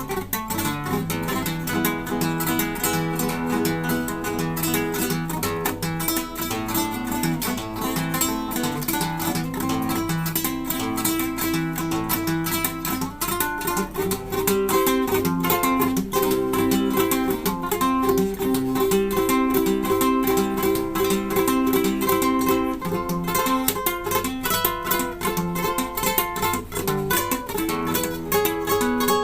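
Solo guitar playing a piece in rapid plucked notes over held lower notes.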